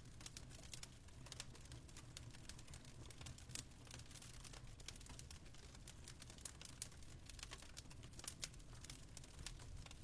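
Faint fireplace crackling: irregular sharp pops and snaps over a low steady rumble.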